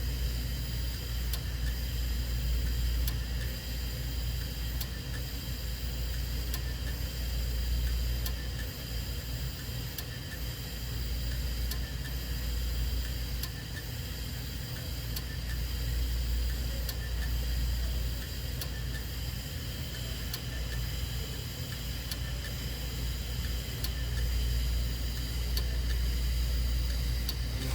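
A steady low machine hum with faint, irregularly spaced ticks.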